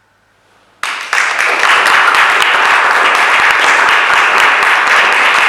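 Audience applause bursting in suddenly about a second in and going on loud and dense, greeting the end of a performance.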